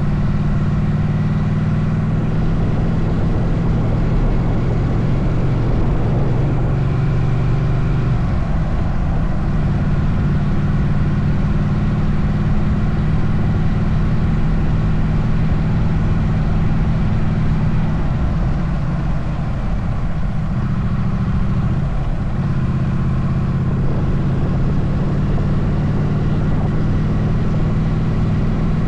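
Motorcycle engine running while riding, with a steady rush of wind noise. The engine note shifts about eight seconds in and again around twenty seconds in.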